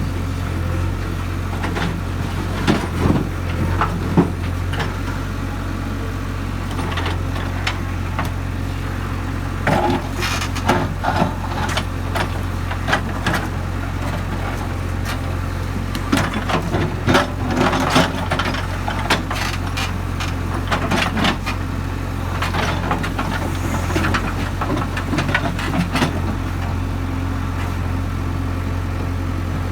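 JCB 3DX backhoe loader's diesel engine running steadily, with repeated bursts of clanking and rattling as pieces of rock are scooped and dropped into a truck.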